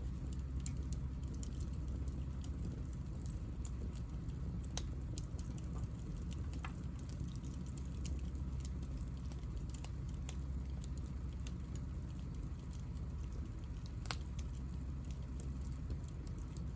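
Hinoki (Japanese cypress) offcuts burning, the wood crackling with many small scattered pops and one sharper pop near the end, over a steady low rumble.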